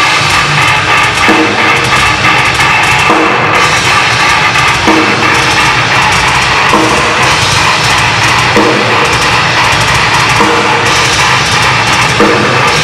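Heavy metal band playing live, an instrumental passage with a loud drum kit, bass drum and cymbals driving the full band.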